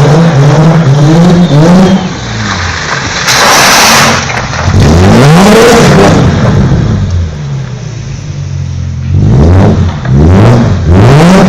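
BMW M3 E36 Evo's 3.2-litre straight-six, breathing through a Supersprint exhaust, revved up and dropping back several times, its pitch climbing and falling with each rev. About three and a half seconds in there is a short, loud rushing noise.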